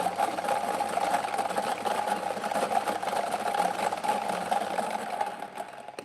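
A prize-draw number spinner running with a rapid, dense clicking rattle. The clicks slow and thin out near the end as it winds down to pick a number.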